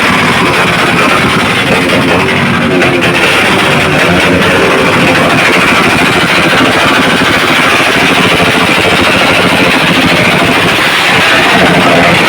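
Loud, continuous exhaust noise from vehicles revved through loud mufflers, with music mixed in.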